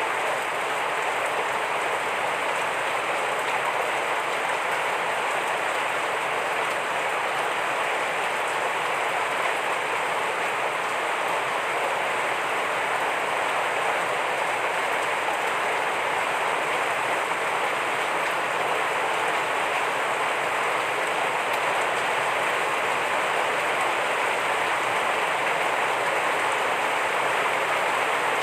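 Heavy rain falling steadily: an even, unbroken hiss of rain on surfaces with no change in strength.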